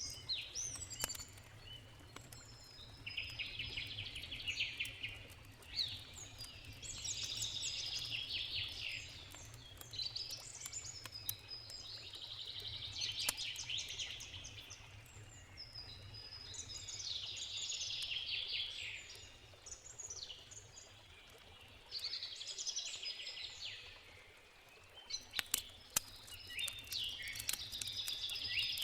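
A songbird sings about seven phrases of rapid, twittering notes, each lasting two to four seconds, with short gaps between them. A wood campfire crackles with scattered sharp pops, busier near the end, over a steady low rush of a river.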